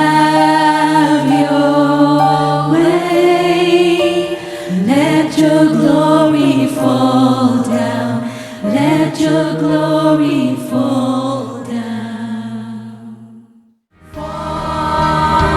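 Worship music: voices holding long sung notes over sustained instrument chords. The music fades out about two seconds before the end, and after a brief silence music starts again abruptly.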